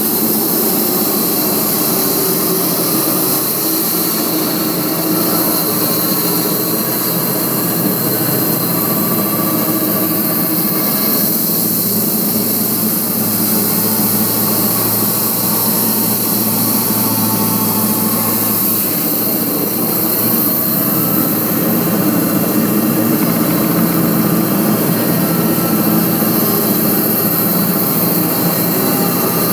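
Homemade band sawmill running: a loud, steady machine drone. A deeper steady hum joins from about twelve to nineteen seconds in.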